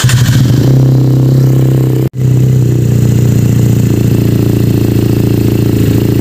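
Benelli 302S parallel-twin engine idling steadily just after starting, through a twisted mid-pipe and Akrapovic exhaust, with a deep, bassy note. The sound cuts out for an instant about two seconds in.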